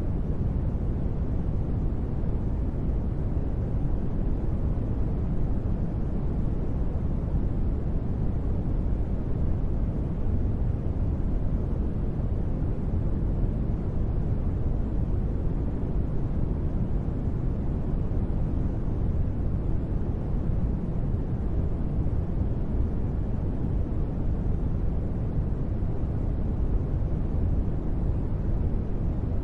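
Steady, deep rushing noise, heaviest in the low end with little treble. It has no tones, rhythm or changes: a continuous ambient noise bed for sleep or relaxation.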